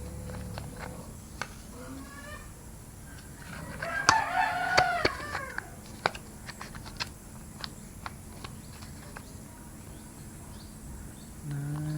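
A rooster crowing and chickens clucking, with one loud, wavering call about four seconds in. Scattered light clicks and taps run through it.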